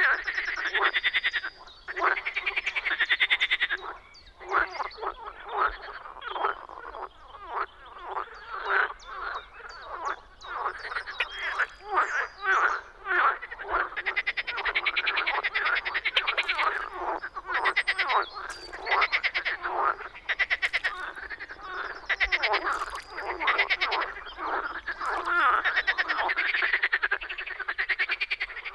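Marsh frogs (Pelophylax ridibundus) calling, many rapid pulsed calls overlapping without a break.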